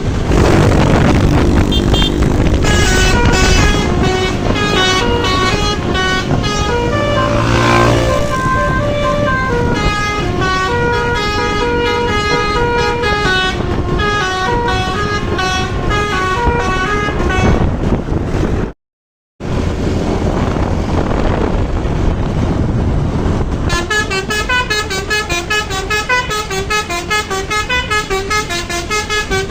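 Basuri musical air horns on buses, held on and playing a continuous tune of stepping multi-tone notes over the running of the bus engines and traffic. The sound cuts out completely for about half a second a little after the middle.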